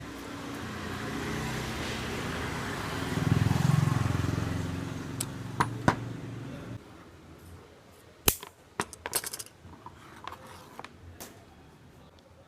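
A power tool running with a steady whir and low hum, stopping abruptly about seven seconds in, followed by several light metallic clinks of metal parts being handled.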